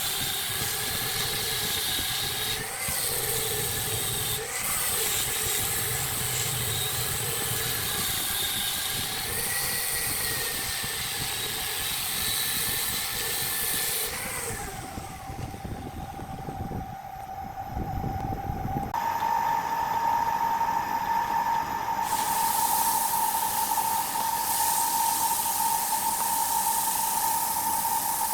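Wood lathe running, its motor giving a steady whine under a constant hissing scrape of a tool cutting the spinning wood. About fifteen seconds in the sound thins out for a few seconds, then comes back as a steadier, higher whine.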